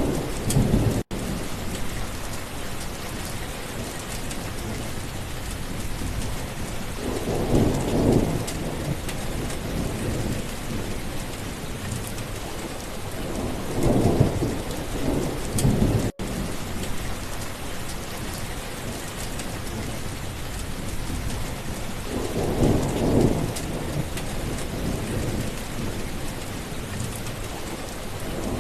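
Steady rain with rolling thunder rumbling up every six to eight seconds or so, four times. The sound cuts out for an instant twice, about a second in and about halfway.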